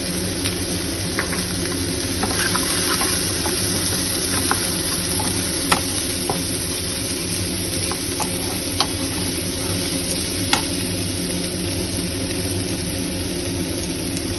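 Sliced onions frying in oil in a kadai, a steady sizzle, with a spatula stirring them and now and then clicking sharply against the pan.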